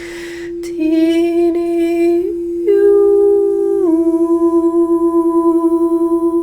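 Singing bowl ringing a steady tone while a voice hums along near its pitch. The voice comes in about a second in, holds, steps down in pitch near the middle and settles into a pulsing beat against the bowl.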